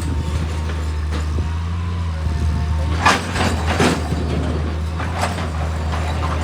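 A heavy engine running steadily with a low drone. About three seconds in come two short, harsh noisy bursts close together, and another comes near five seconds.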